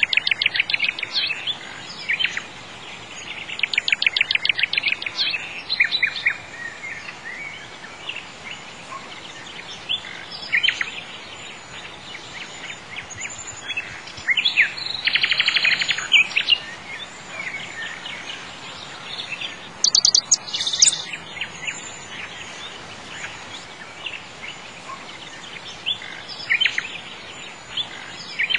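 Songbirds singing: short rapid chirping trills every few seconds, with one higher, thinner phrase about two thirds of the way through, over a faint steady hiss.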